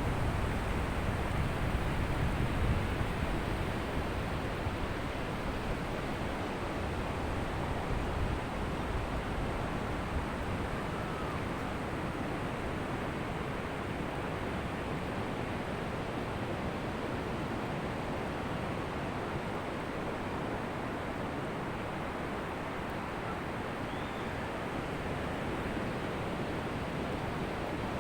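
Ocean surf washing steadily onto a beach, a little stronger in the first few seconds.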